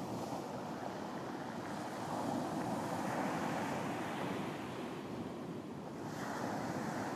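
Ocean waves washing onto a beach in a steady hiss of surf, swelling a couple of seconds in and again near the end, with wind on the microphone.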